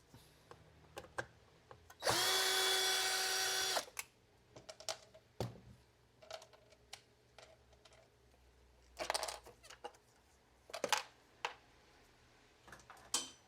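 Small electric screwdriver running for about two seconds, spinning out a screw of the robot vacuum's cover. It is followed by scattered light clicks and knocks of small plastic parts and screws being handled.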